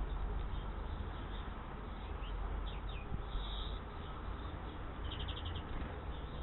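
Small songbirds chirping in short calls, with a quick run of about six notes about five seconds in, over a steady low rumble of background noise.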